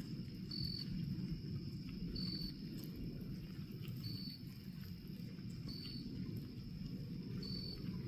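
Steady low rushing noise like rain or running water, coming from fire-killed standing trees, whose cause is unknown. Over it, crickets keep up a steady high trill, with a short chirp about every second and a half.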